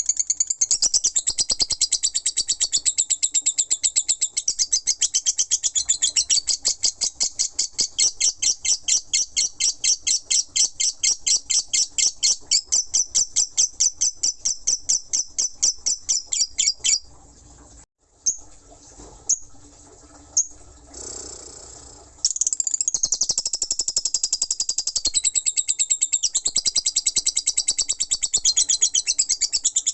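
Lovebird singing its long 'ngekek' chatter, a fast unbroken string of shrill repeated notes. It breaks off about halfway through for a few seconds with only a few short chirps, then starts again near the end.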